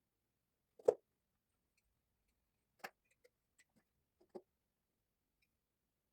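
A handful of separate sharp knocks and clicks, the loudest about a second in, then several fainter ones two to four seconds in.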